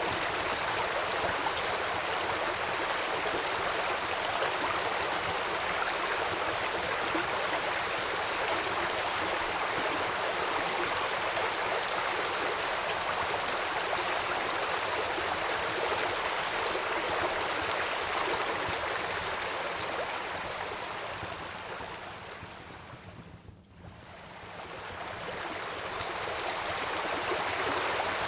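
Steady rushing of a flowing stream with a light rain-like hiss. A faint, high chirp repeats about once a second through the first half, and the whole sound dips out and swells back up about 23 seconds in.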